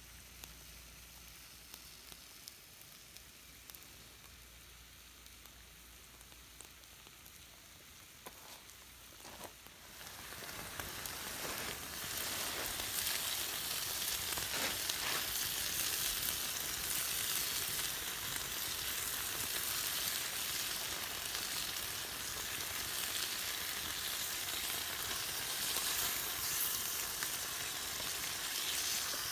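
Meat, tomatoes and green peppers sizzling in a steel pan over an open wood fire. It is a steady frying hiss, faint at first and noticeably louder from about ten seconds in.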